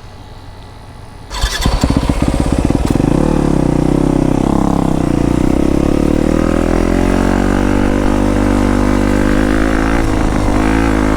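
Yamaha YZ250F dirt bike's single-cylinder four-stroke engine firing up suddenly about a second and a half in, revved up and down a few times, then running steadily at a raised speed.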